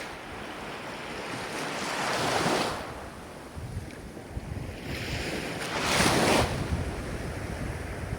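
Ocean surf rising and falling in two swells, one about two seconds in and a louder one about six seconds in.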